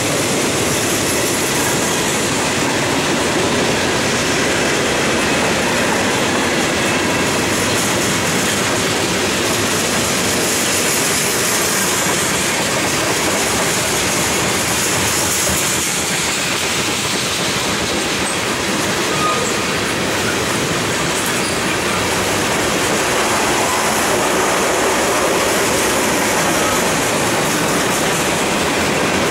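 Freight cars of a Norfolk Southern mixed freight train (hoppers, tank cars and boxcars) rolling past: a loud, steady noise of steel wheels running on the rails.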